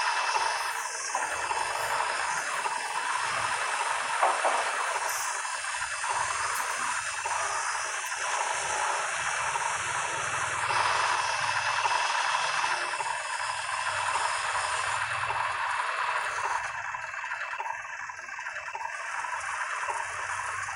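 Excavator running, a steady mechanical noise with a few faint high whines that rise and fall.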